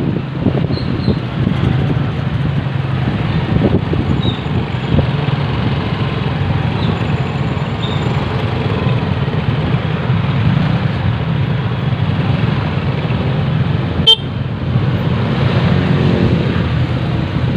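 Motorcycle engine running steadily while riding in city traffic, with wind noise on the microphone. A single sharp click about fourteen seconds in.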